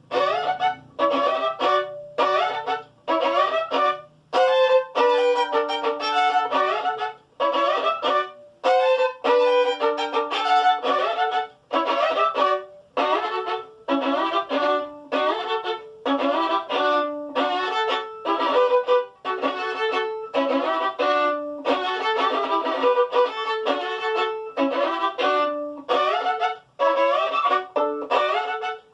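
Solo violin playing a folk melody in short, separated bowed notes, phrase after phrase with brief gaps between them.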